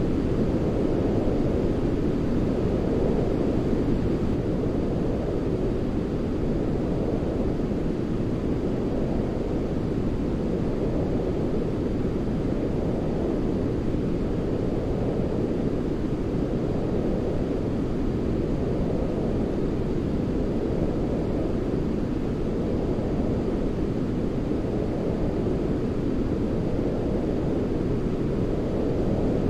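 Steady, deep sleep noise from a baby white-noise track: an even rush weighted toward the low end, like brown noise, at a constant loudness with no breaks.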